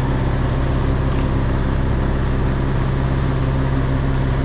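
Heavy goods vehicle's diesel engine running steadily at low revs, a constant low hum, while the lorry creeps through a slow parking manoeuvre.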